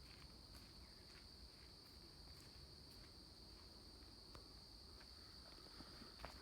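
Near silence, with a faint, steady high-pitched insect chorus, like crickets, trilling throughout.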